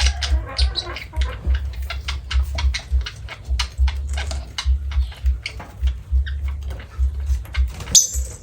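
Small pet parrots chattering in quick, short chirps, with one loud shrill squawk near the end. A low bumping rumble runs underneath.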